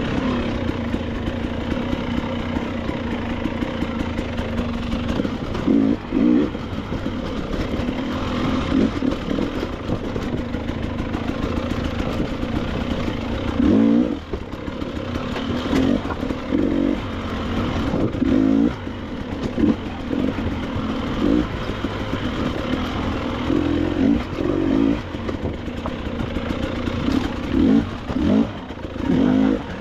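Two-stroke KTM 300 XC-W dirt bike engine running on rough trail, with frequent short bursts of throttle where the revs jump up and drop back.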